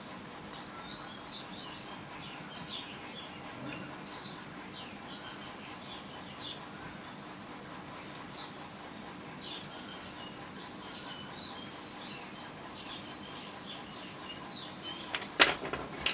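Birds chirping in short, scattered calls over an insect's high, evenly pulsing trill, with one sharp click near the end.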